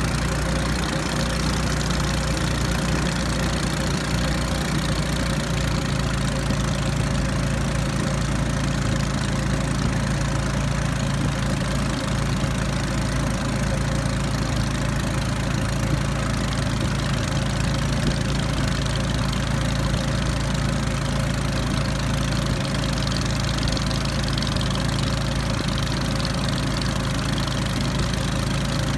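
The motorized river raft's small engine running steadily at a constant speed, a low even hum with a noisy rattle over it.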